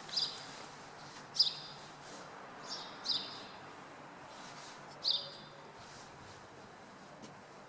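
Small birds chirping: about five short, sharp chirps at irregular intervals, the last about five seconds in, over a steady background hum of city noise.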